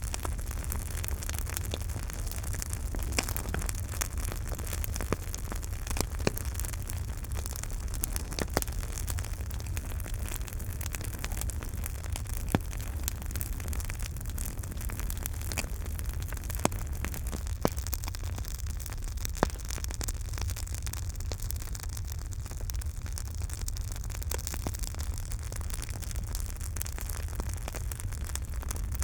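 Campfire crackling steadily under a low rumble, with frequent small snaps and a handful of louder pops from the burning wood, most of them in the middle of the stretch.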